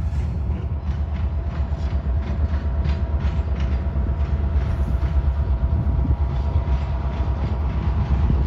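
Norfolk Southern diesel freight train running on the rails: a steady low rumble with a faint steady whine, and repeated clicks of wheels over the track.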